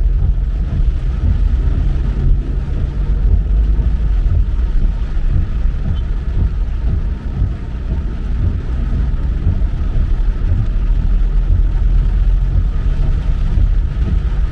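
Car driving in the rain: a steady low rumble of engine and road noise with an even hiss of tyres and rain on wet pavement.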